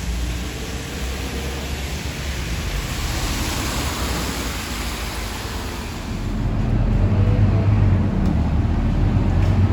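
Interior sound of a Scania K230UB bus, its five-cylinder diesel engine running with road and air noise. About six seconds in, the engine drone grows louder and lower, as under acceleration.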